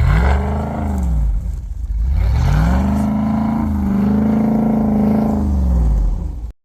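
Off-road 4x4 engine revving twice: a short rise and fall in pitch, then a longer rev held high for a couple of seconds before dropping back. The sound cuts off suddenly near the end.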